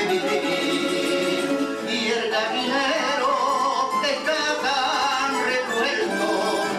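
Plucked-string trio of bandurria, laúd and guitar playing a Cádiz carnival tune, with a voice singing over it.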